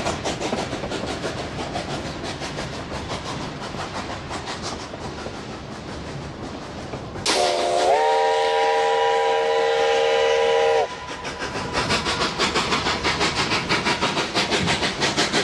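Narrow-gauge steam locomotive working upgrade with a steady rhythm of exhaust chuffs. About seven seconds in, it sounds one long blast on its chime whistle, several tones at once sliding up briefly at the start, held about three and a half seconds. Then the chuffing comes back louder.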